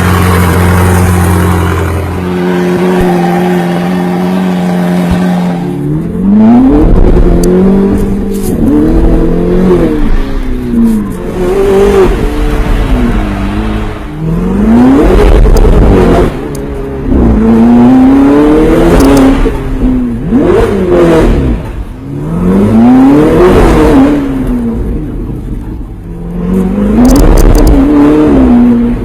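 Ferrari 488 GTB's twin-turbo 3.9-litre V8 through an iPE titanium exhaust system: a steady low idle, then a held higher engine speed, then the engine revved hard again and again, pitch climbing and dropping back in several loud surges.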